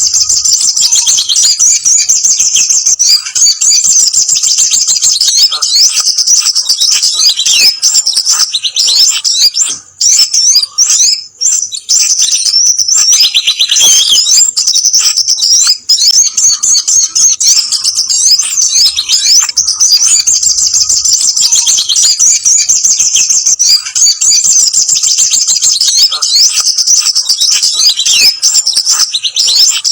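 Rapid, agitated chattering of crimson sunbirds (sogok ontong) in a bird-trapping lure recording: dense, high-pitched chirps and trills tumbling over one another almost without pause, broken by a couple of brief gaps. The excited, 'ribut' calling is the kind used to draw wild birds down to the trap.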